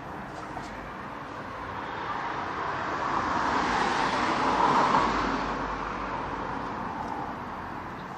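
A road vehicle passing by: its noise swells, peaks about five seconds in, then fades away.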